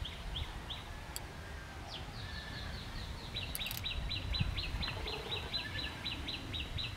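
A small bird calling with short, high chirps, a few scattered at first, then a fast even run of about five a second over the second half, over a low rumble.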